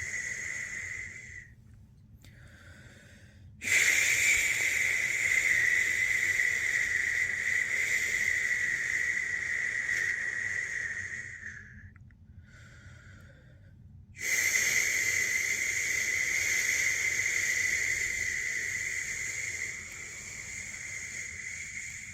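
A person making long, steady 'shhh' shushing sounds to soothe a newborn to sleep. Each shush lasts several seconds, with a quieter gap of about two seconds between them, and the last one drops in level near the end.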